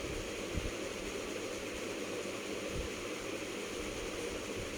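Chicken joints frying in hot oil in a pan, a steady sizzle.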